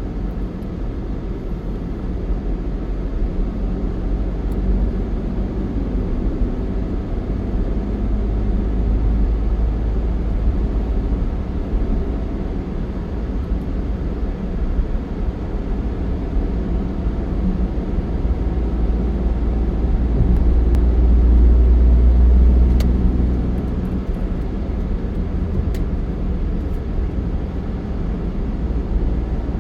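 Steady low rumble of a moving vehicle, growing louder for a few seconds about two-thirds of the way through.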